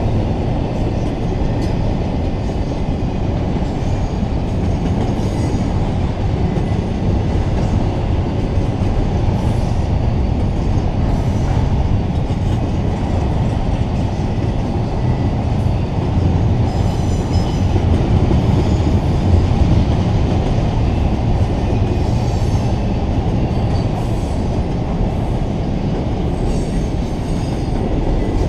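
Double-stack intermodal well cars of a CSX freight train rolling past: a steady heavy rumble of steel wheels on rail, with faint high wheel squeals now and then.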